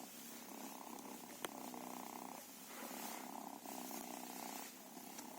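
Cat purring in long stretches, with short breaks between breaths. A single sharp click comes about a second and a half in.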